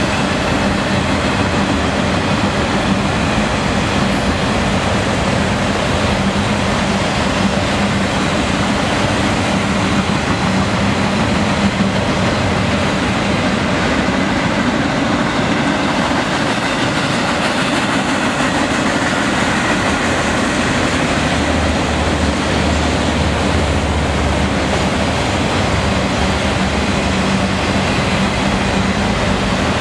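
Freight train of enclosed autorack cars rolling past, a steady loud rumble of steel wheels on rail with a continuous low hum.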